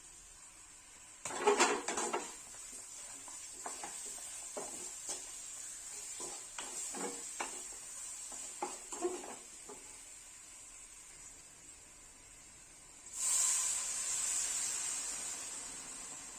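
A metal utensil clattering and knocking against a cooking pot, first in a loud clatter and then in a run of separate knocks and scrapes as the stew is stirred. A little before the end a burst of hissing starts suddenly and slowly fades.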